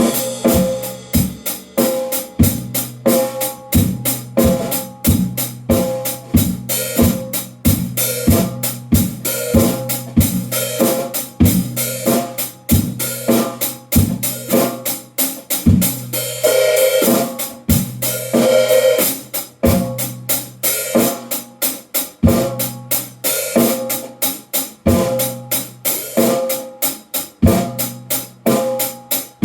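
Drum kit played freely: a dense run of bass drum and snare strokes with cymbals, a stretch of heavier cymbal wash a little past the middle.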